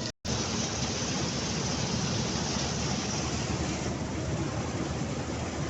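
Mahindra 275 XP Plus tractor's diesel engine running steadily under a harsh wash of noise, with the sound cutting out for a split second at the very start.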